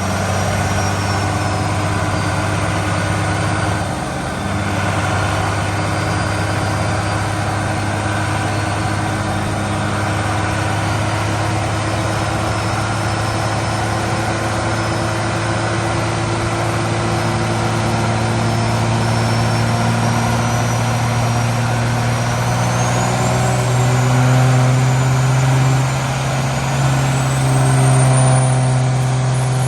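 A truck engine running steadily, stepping up a little in pitch and loudness twice near the end, with a thin high whine above it that rises toward the end.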